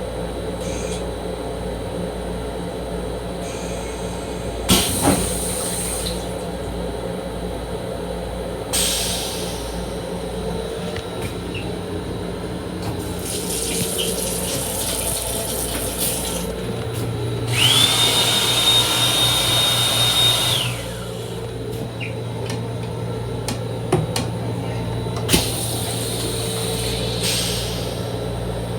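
Restroom fixtures in a Long Island Rail Road M7 railcar: water running in several spells, the loudest a rush with a steady high whine lasting about three seconds past the middle, over the car's steady electrical hum, with a few sharp clicks.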